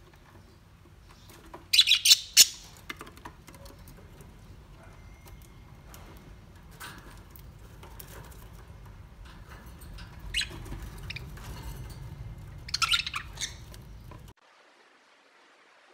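Pet budgerigars chirping and squawking in short bursts: a loud flurry about two seconds in, then more chatter about ten and thirteen seconds in, over a low steady hum that cuts off suddenly near the end.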